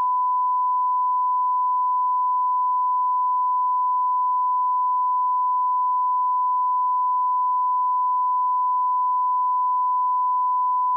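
Steady 1 kHz sine-wave line-up tone at −18 dB full scale, the reference level tone of a broadcast audio test, held unbroken at one pitch.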